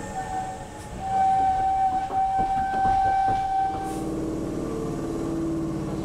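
Electric commuter trains at a station: a steady pitched tone lasts about three seconds over light clicking and rattling, then gives way to a lower steady hum.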